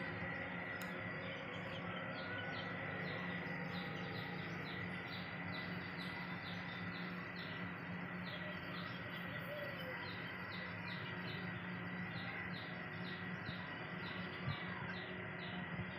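A small bird chirping over and over, short high chirps evenly spaced at about two a second, over a steady low background hum.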